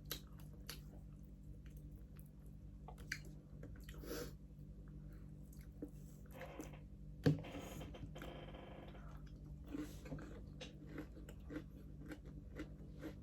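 A person chewing and biting into crispy pata, deep-fried pork knuckle, with small crunches and crackles scattered through and one louder crunch about seven seconds in.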